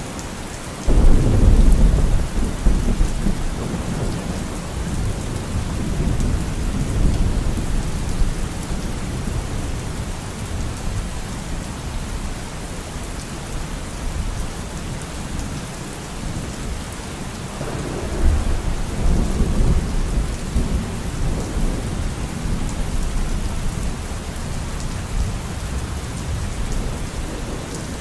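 Steady rainfall with thunder. A sudden loud clap about a second in rolls off over several seconds, and a second rumble comes about eighteen seconds in.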